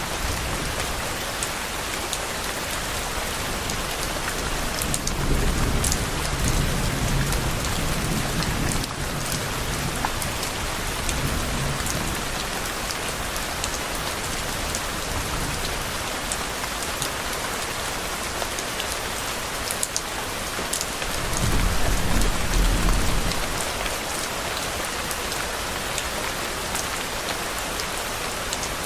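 Steady rain falling, with low thunder rumbling twice: a long rumble a few seconds in and a shorter, deeper one about two-thirds of the way through.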